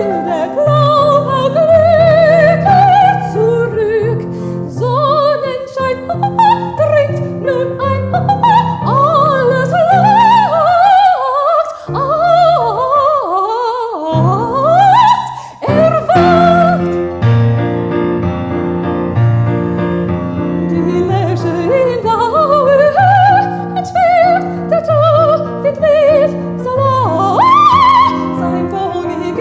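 Classical female voice singing quick runs and trills with vibrato over piano accompaniment, with a fast rising run about fifteen seconds in.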